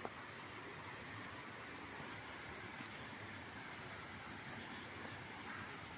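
Faint, steady rush of a waterfall in the distance, with an insect's high, unbroken drone over it.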